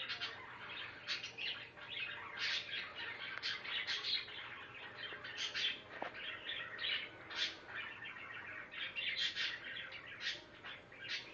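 Budgerigars warbling and chirping without a break, a fast chatter of short notes: the mating warble of breeding budgies.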